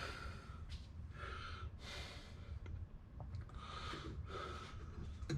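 A man's breathing close to the microphone: a series of soft, audible breaths through the nose, some sharper like sniffs.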